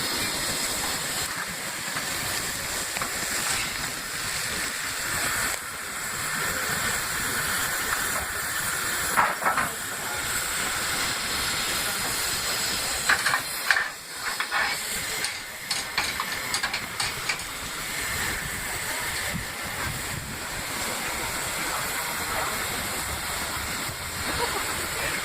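Peppercorn A1 class 4-6-2 Pacific steam locomotive hissing steam steadily, with a few sharp clicks about midway.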